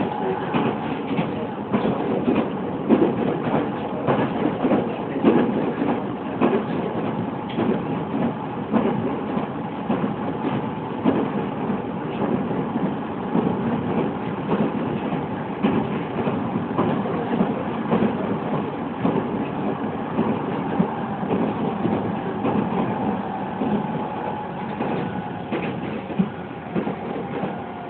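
Running noise of a JR East E501 series electric train, heard from inside its motor car: a steady rumble of wheels on rail at speed, with scattered short sharp knocks.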